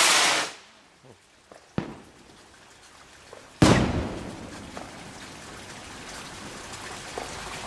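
A large firework rocket's launch hiss dies away, a small pop sounds about two seconds in, then a loud bang of the rocket bursting about three and a half seconds in, trailing off slowly.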